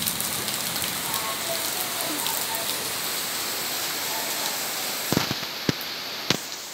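Heavy monsoon rain falling steadily, with water pouring off a roof edge onto the ground, a continuous hiss. Near the end come three sharp knocks.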